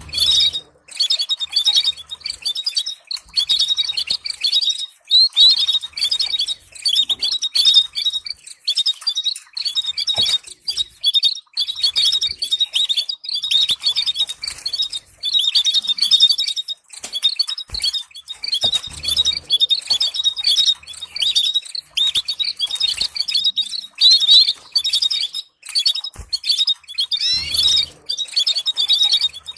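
Canary singing: long phrases of rapid trills and chirps with brief pauses between them.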